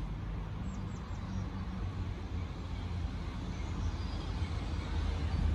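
Great Western Railway Class 802 bi-mode train approaching on its underfloor diesel engines, a low rumble growing steadily louder as it nears.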